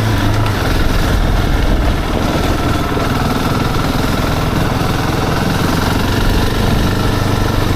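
Husqvarna 701's single-cylinder engine running steadily, under a constant rushing noise.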